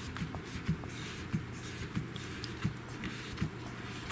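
Quiet handling of a phone and its screen protector: soft knocks and light rubbing, roughly one every half second to a second, over a steady low hum.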